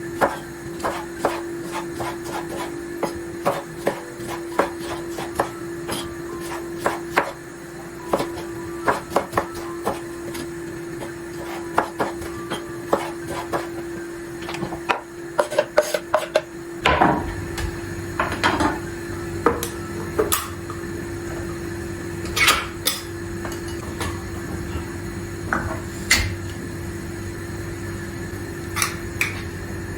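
Kitchen prep sounds: irregular knocks and clicks of utensils on a board and dishes, over a steady hum. About halfway through, a low rumble joins the hum and the knocks grow sparser.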